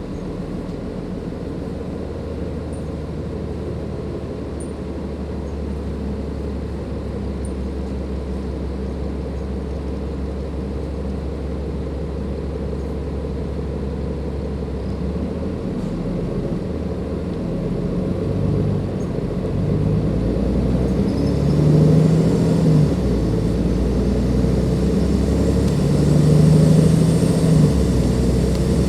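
Cummins ISLe diesel engine of a Dennis Enviro 500 double-decker bus, running steadily low for about the first fifteen seconds. The engine note then changes, with the revs rising and falling in two louder surges, one a little after twenty seconds in and one near the end.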